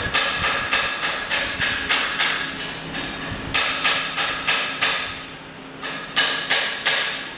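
Hammer striking metal in quick, evenly spaced blows, about three a second, pausing briefly about five seconds in, then resuming.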